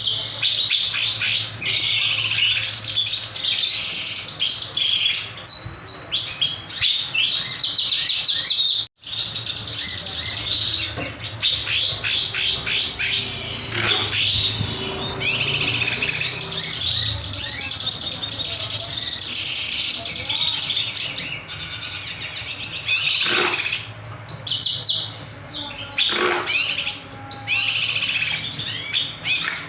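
Kinoy songbird singing non-stop: fast runs of high, sharp chirps and trills with harsh rasping notes. The song cuts out abruptly for a moment about nine seconds in, then resumes.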